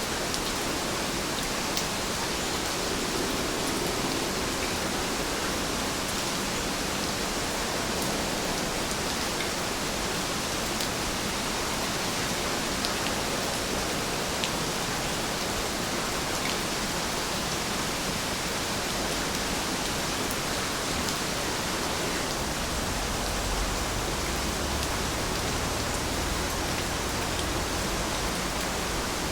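Steady rain falling, an even hiss with scattered faint drop ticks. A faint low rumble joins in about two-thirds of the way through.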